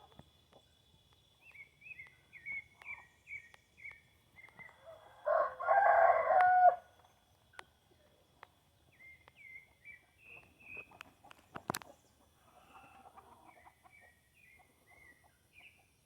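A rooster crows once, about five seconds in, the loudest sound. A songbird sings runs of short, quick chirping notes before and after the crow, and a fainter fowl call follows near the end.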